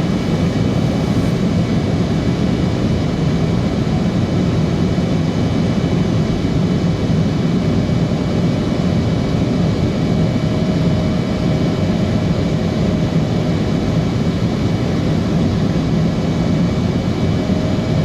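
Steady in-flight noise of a Fokker 70 jet airliner: its rear-mounted Rolls-Royce Tay turbofans and the airflow give an even, unchanging noise, heaviest in the low range, with faint steady tones above it.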